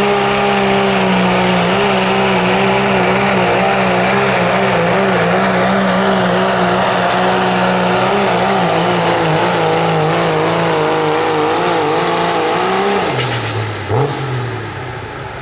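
4WD diesel pulling truck's engine running at high, steady revs under full load down the track, its pitch wavering as it drags the sled. About 13 s in the throttle is lifted and the revs fall away, with one brief blip of the throttle a second later as the pull ends.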